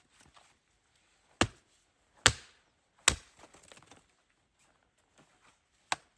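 Wood being chopped: four sharp strikes of a blade into wood, three about a second apart starting a little over a second in, then one more near the end.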